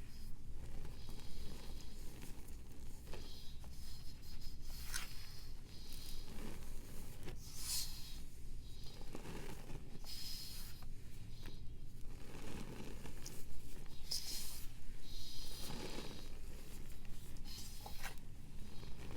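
A block of dry pressed powder being crumbled and scraped, close up: irregular crunching, scraping strokes every second or two.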